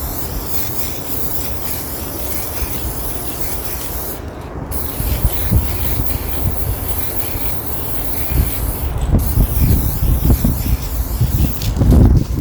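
Aerosol can of chrome-effect gold spray paint hissing, breaking off briefly twice, with wind gusting on the microphone.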